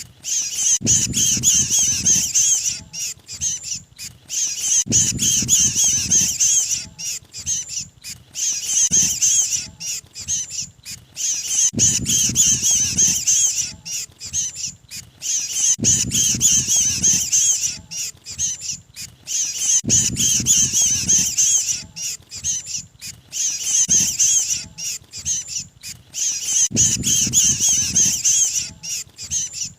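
Looped lure recording of a mantenan bird's 'kejepit' distress calls, the cry of a trapped bird, played to draw others of its kind. The calls are a dense, high-pitched, squeaky chatter with brief breaks, and a lower noise comes in about every four seconds as the recording repeats.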